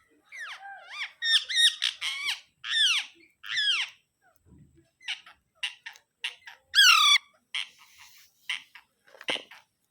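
Alexandrine parakeet squawking: a string of loud, harsh calls that fall in pitch over the first four seconds. After a short pause come quicker short chirps, with one more loud squawk about seven seconds in.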